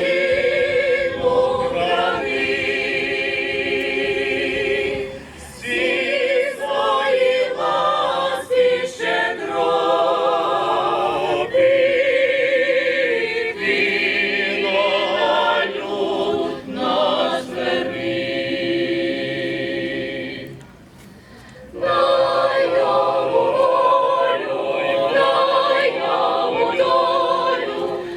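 Choir singing, holding long notes with vibrato, with a short break in the singing about 21 seconds in.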